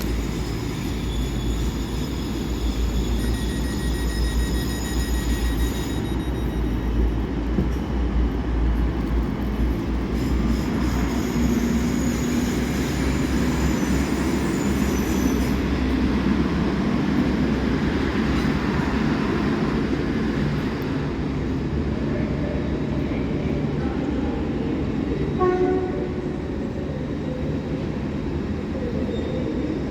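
A train runs in the station over a steady low rumble. High whining tones from its traction equipment rise and fade twice, and a brief pitched toot sounds about 25 seconds in.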